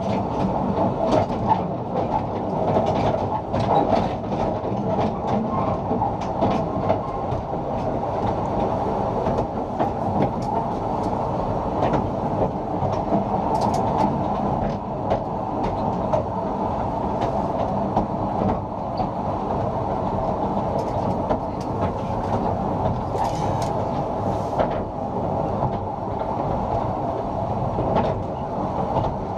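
A 2 ft 3 in gauge narrow-gauge passenger train running along the track: a steady rumble from the wheels and coaches, with irregular clicks and knocks all through.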